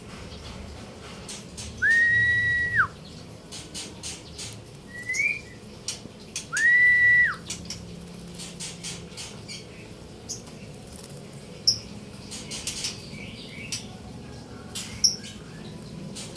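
Two long, level whistles, each about a second, rising into the note and dropping off at the end, with a short rising chirp between them. Faint clicks and a few brief, high bird chirps follow later.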